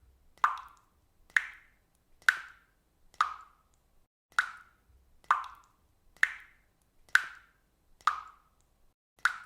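Water dripping steadily, about one drop a second, each drop a short plop.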